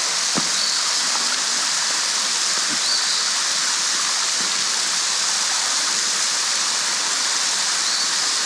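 Steady rush and splash of water from Hemmed-In-Falls, a very tall waterfall carrying only a light flow.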